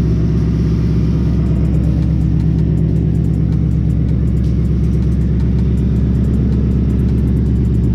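Ford Mustang GT's V8 with long-tube headers idling steadily, a low, even exhaust rumble.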